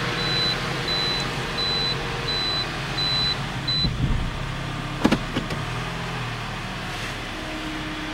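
Toyota RAV4's 2-litre engine idling steadily, heard from inside the cabin, while the CVT selector is moved through its positions to flush fresh fluid through the transmission. A repeating cabin beep stops just before the lever is shifted about four seconds in, followed by a low thump and a couple of sharp clicks from the shifter.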